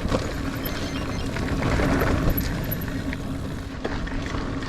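Niner Air 9 RDO 29er mountain bike rolling over dirt singletrack: a steady rumble of tyres on the trail with scattered small rattles and knocks, louder around the middle.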